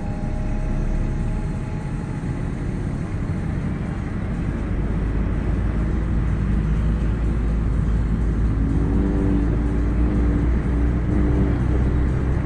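Car engines running, a steady low rumble that grows a little louder partway through.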